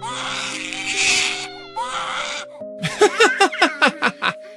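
Background music with long held notes, over which a baby cries in two long breathy wails, then a quick run of about eight short, falling sobbing cries near the end.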